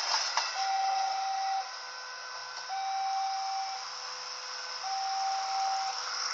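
Railway level-crossing warning alarm: a steady one-note beep about a second long, repeating about every two seconds, over a steady hiss.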